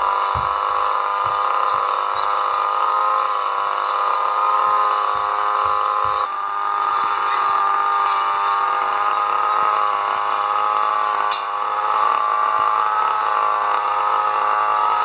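A small engine-driven power tool running steadily at a high, slightly wavering pitch. There is a slight shift in the sound about six seconds in.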